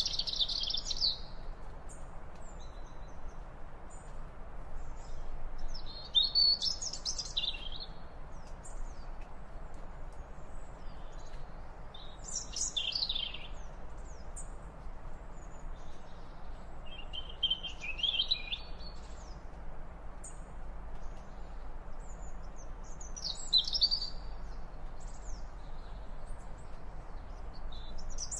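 Bird calls: short high chirping phrases repeated about every five to six seconds over a steady background hiss.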